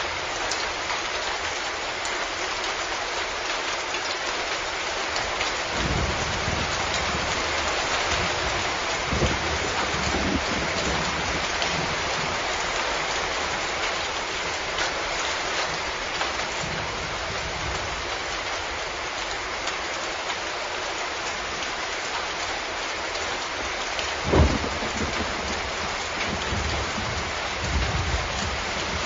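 Steady, heavy rain hissing without a break, with low rumbles of thunder several times; the sharpest comes about four-fifths of the way through.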